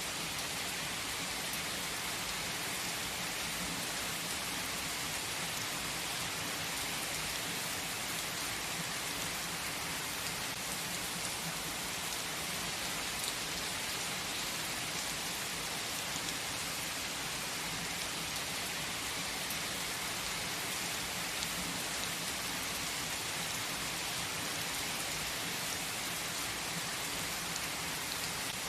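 Steady rainfall, a dense even patter of drops on surfaces with no thunder.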